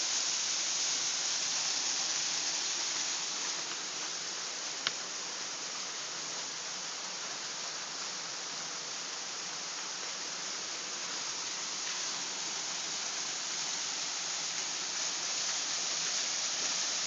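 Waterfall rushing steadily in a canyon, with a single short click about five seconds in.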